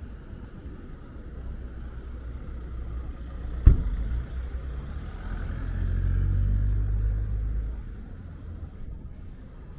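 A car passes close by on a city street, its low rumble swelling and fading over a few seconds. A single sharp knock comes just before it, a little over three seconds in.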